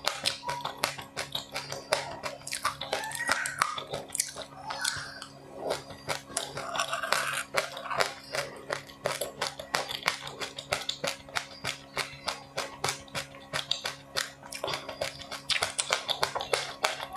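A person chewing crunchy seeds and rice crisps, a dense run of sharp crackles and clicks.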